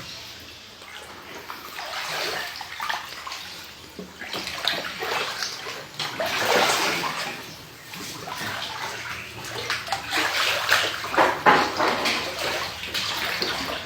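Floodwater from rain sloshing and splashing inside a house, coming in uneven surges, with a stretch of busier splashing about ten seconds in.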